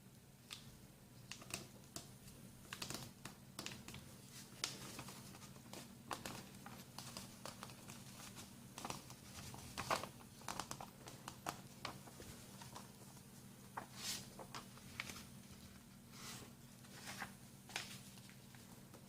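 A sheet of printer paper being handled and folded, with faint irregular crinkles, rustles and sharp creasing crackles. A steady low hum runs underneath.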